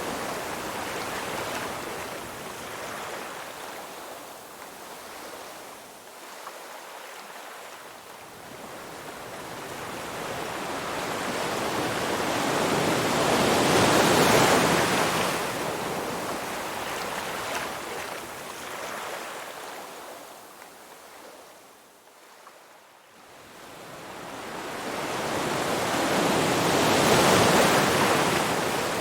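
Ocean surf: waves washing in and drawing back, the hiss swelling twice to a peak, about thirteen seconds apart, and falling away between.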